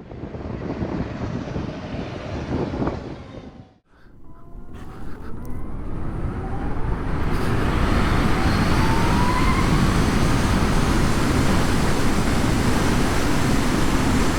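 Harley-Davidson LiveWire's electric drive whining, rising in pitch as the bike accelerates away, under wind and road noise that builds to a steady rush on the microphone. The sound briefly drops out about four seconds in.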